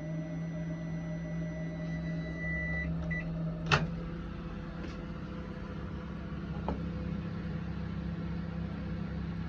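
Menumaster RCS511TS commercial microwave oven running with a steady low hum. A high steady tone sounds for about three seconds as it starts, and a loud click comes a little under four seconds in, after which the hum carries on a little quieter.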